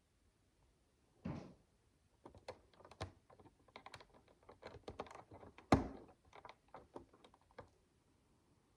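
Micro bricks (tiny plastic building bricks) being handled and pressed together: a soft knock about a second in, then a run of small plastic clicks and taps for about five seconds, the sharpest one near the six-second mark.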